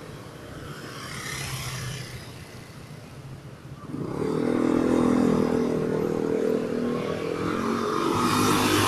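Street traffic, with a motor vehicle's engine coming up close and loud about four seconds in and running steadily after that.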